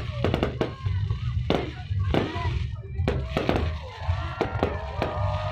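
Fireworks bursting in quick succession, with sharp bangs about two to three times a second, over music with a steady heavy bass.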